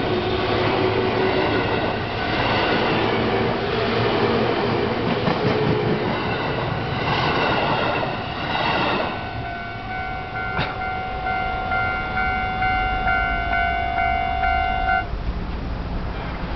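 A JR 205-series electric train runs past until about nine seconds in. The level-crossing bell then rings on its own in a fast, even, repeating pattern, and stops about fifteen seconds in.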